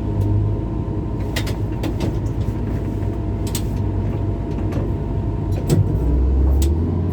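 Excavator's diesel engine running under work, with several sharp metal clanks. The engine note drops lower about six seconds in.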